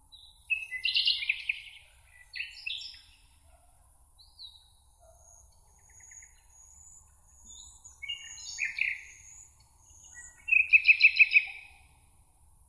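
Birds singing: short chirping song phrases, with thin high notes in between. The loudest phrase, near the end, is a rapid run of about six notes.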